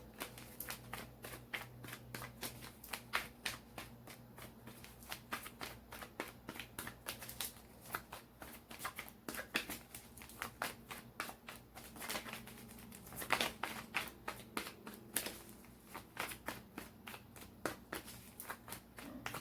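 A tarot deck being shuffled by hand: a long run of soft, quick card clicks and flutters, with a few louder snaps about two thirds of the way through.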